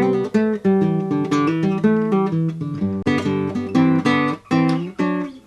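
Strummed acoustic guitar music: the channel's theme playing as the outro.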